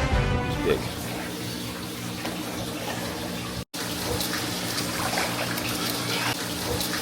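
Steady rush of running water with a faint low hum under it. The tail of music ends in the first second, and the sound drops out for an instant at a cut partway through.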